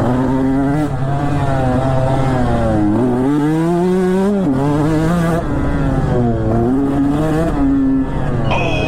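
Dirt bike engine revving, its pitch rising and falling several times and climbing to a peak about four seconds in before dropping sharply.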